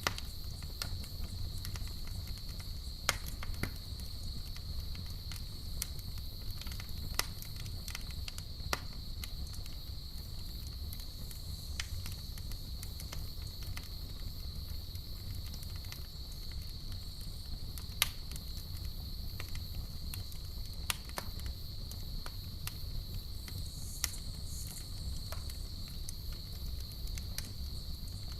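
Campfire crackling, with sharp pops scattered every second or two over a low steady rumble of the burning fire. A continuous high, even cricket trill runs alongside.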